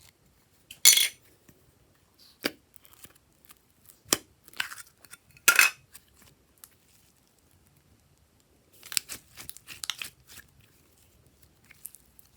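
Hands working with slime and the things being mixed into it: a string of short crinkling, tearing and clicking noises, the loudest about a second in and about five and a half seconds in, with a quick cluster near the end.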